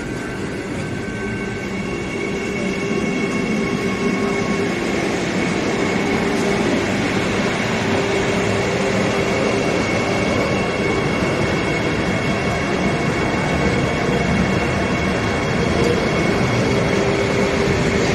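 Vande Bharat Express trainset running past close alongside on the next track, its wheels rumbling on the rails with a steady thin squeal over the rumble. It grows slowly louder as the coaches go by.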